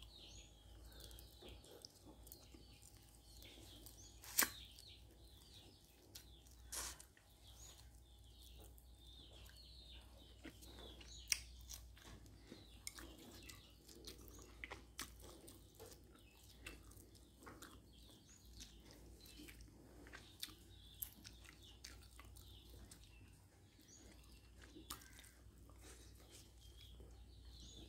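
Quiet chewing of rice and crispy deep-fried climbing perch, with small sharp clicks of chopsticks and a metal spoon against a ceramic bowl; two louder clicks come about four and eleven seconds in.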